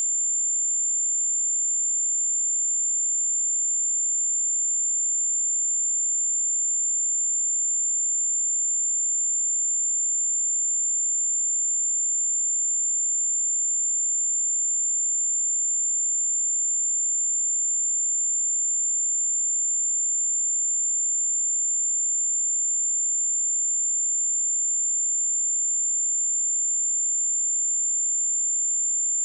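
A single pure 7234 Hz sine tone, a high-pitched steady whistle held at constant pitch and level, used as a speaker and headphone test signal.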